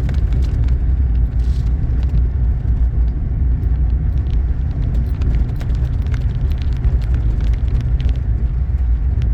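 Steady low road rumble of a four-wheel-drive vehicle driving through snow, with a few faint ticks and clicks.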